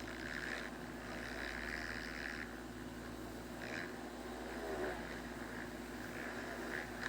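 Faint motocross bike engines running on the track, coming and going in short bursts, over a steady low hum.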